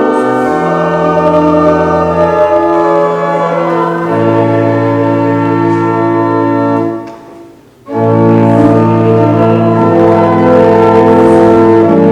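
Church organ playing held chords of a hymn, stopping for about a second between phrases and then going on.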